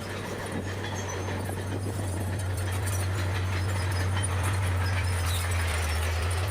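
Bulldozer's diesel engine running with a steady low drone that grows slightly louder over the first few seconds, with a rough rattle of scattered clicks over it.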